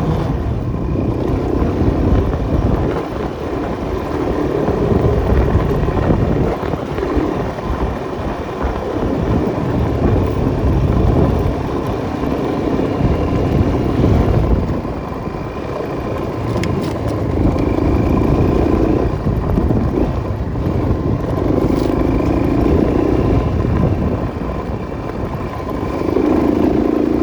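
Enduro motorcycle engine running under changing throttle as it rides through mud, revs swelling and dropping every few seconds.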